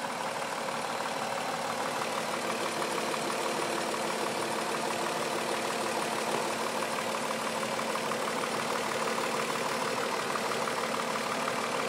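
Mazda 6's 3.0-litre V6 idling rough with a low knocking in a steady, rapid rhythm. The owner cannot tell what causes the knock.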